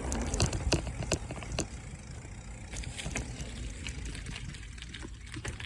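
Bicycle riding: a steady low rumble of wind and road noise, with several sharp clicking rattles in the first second and a half, then lighter ticks.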